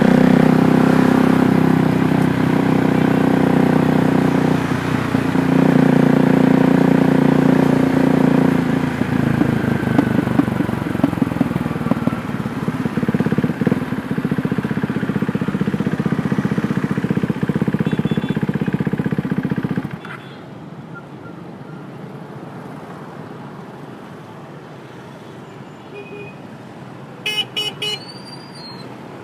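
KTM Duke 390 single-cylinder engine running under way, its note stepping with throttle or gear changes a few times. About two-thirds through the engine sound falls away suddenly, leaving faint traffic noise. Near the end a vehicle horn gives a few short toots.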